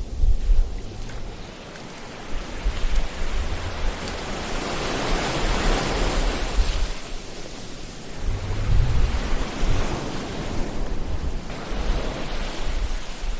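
Ocean waves surging and washing in, one swell building to a peak about halfway through and another near the end, with a gusty low rumble underneath.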